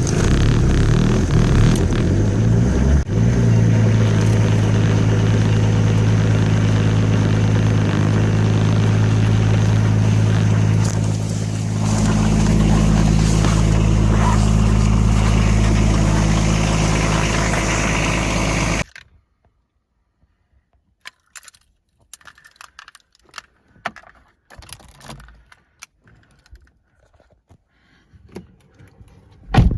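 BMW diesel engine running just after a cold start in deep frost. It runs rough and uneven for the first few seconds, then settles into a steady, clattering idle. About two-thirds of the way through it cuts off abruptly, leaving scattered faint clicks and knocks and one sharp knock near the end.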